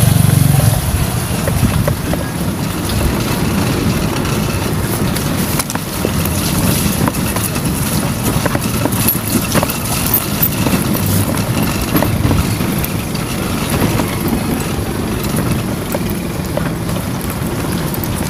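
Motorcycle engine of a tricycle (motorcycle with sidecar) running steadily with road rumble, heard from inside the sidecar.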